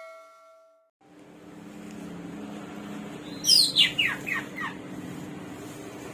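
Samyong (garugiwa) songbird singing a quick run of about five loud whistled notes, each sliding steeply down in pitch, over a steady low hum.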